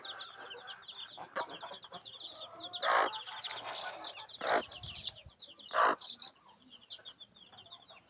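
Chickens clucking and calling, with three louder calls about three, four and a half and six seconds in, over a constant chatter of short high-pitched chirps from many birds.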